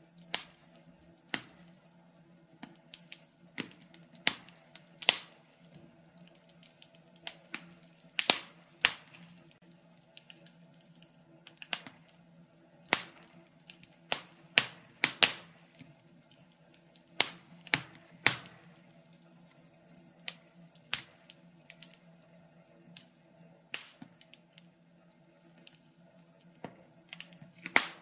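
Wood fire crackling in a fireplace: irregular sharp pops and snaps, several a few seconds apart and some in quick clusters, over a faint steady hum.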